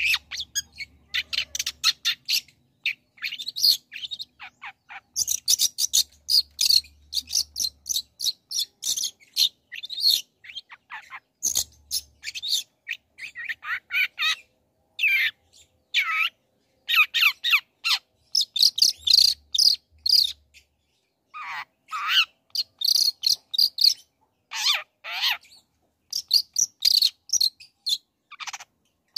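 Long-tailed shrike (cendet) singing a fast, varied song of short chirps and chattering notes, broken by several downward-sweeping calls in the middle.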